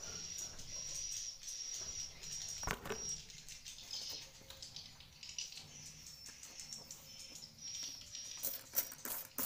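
Swiftlets calling inside a swiftlet house: a high chirp repeating on and off, with a single knock about three seconds in and rapid clicking near the end.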